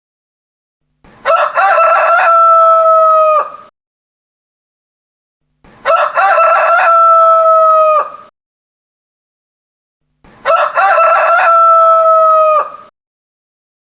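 A rooster crowing three times, about four and a half seconds apart: each crow lasts about two and a half seconds, a few short broken notes rising into one long held note that cuts off sharply. The three crows are identical, with silence between them.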